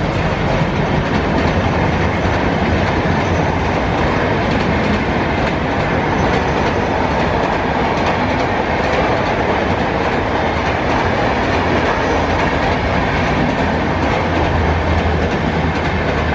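Express passenger train passing at speed: a steady, loud rush of wheels on rails with clickety-clack over the rail joints.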